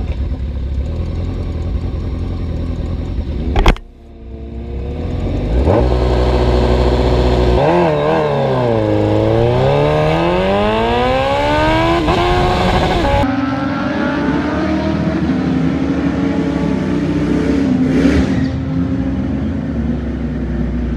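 Drag-racing motorcycle engine running, then launching: its pitch wavers, dips and climbs steadily for about five seconds as it accelerates, followed by a steadier engine note. A single sharp knock sounds about four seconds in.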